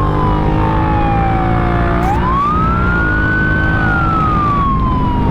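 Police siren wailing on a Honda Africa Twin CRF1000L police motorcycle: one tone slides slowly down, sweeps back up about two seconds in, holds briefly, then slides down again. The bike's parallel-twin engine runs steadily underneath.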